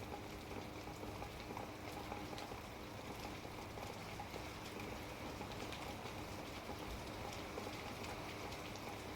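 Steady rain falling outside, heard faintly through a window opened a crack, with scattered light drop ticks.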